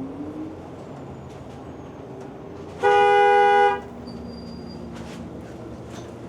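A vehicle horn honks once, a single loud blast of about a second, in two tones, over steady traffic hum.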